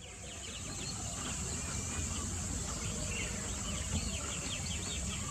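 Outdoor birdsong: many small birds chirping in quick, thin down-slurred notes over a steady high-pitched insect drone and a low rumble.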